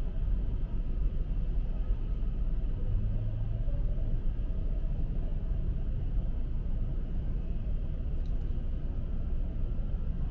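Steady low rumble of outdoor city street noise, like traffic going by, with no speech.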